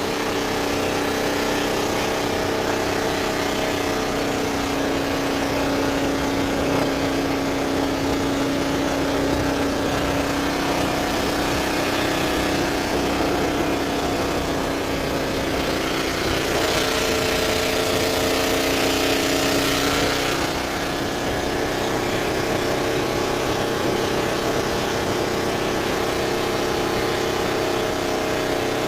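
Boat engine running steadily at an even speed, with a stretch of added hiss a little past the middle.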